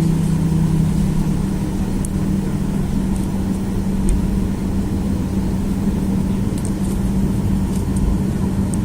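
Boeing 737-800 cabin noise, its CFM56-7B engines running at low power while taxiing before takeoff: a steady hum with a constant low drone and no spool-up.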